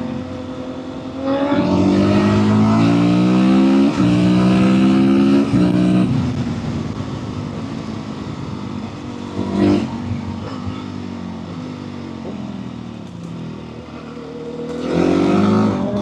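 Motorcycle engine accelerating hard, its pitch climbing and dropping back in steps as it shifts up through the gears, then easing off to a steadier run. A brief sharp sound comes near the middle, and the engine revs up again near the end.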